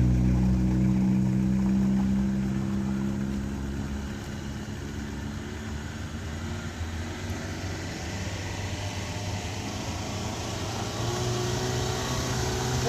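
Vehicle engine running with a steady note that fades away over the first few seconds, then another engine growing louder near the end.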